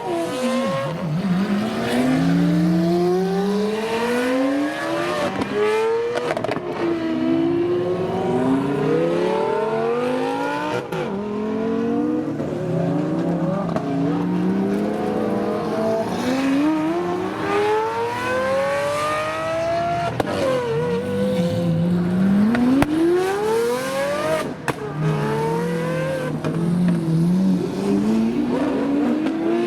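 Supercar engines revving and accelerating hard, one after another, their pitch climbing, dropping and climbing again as they pull away, over other engines running steadily.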